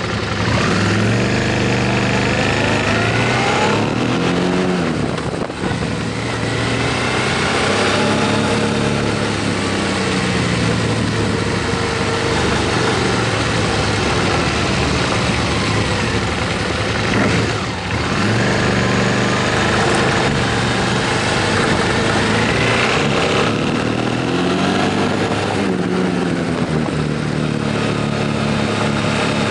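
Motorcycle engine under way, revving up through the gears again and again with drops in pitch at each shift, over heavy wind noise. There is a brief easing of the throttle about eighteen seconds in.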